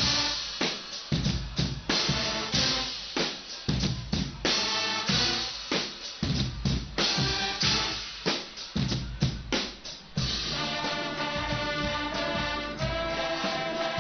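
Guggenmusik band playing: a drum-driven passage of bass drum and snare strokes with short brass hits, then about ten seconds in the brass comes in with held chords over the drums.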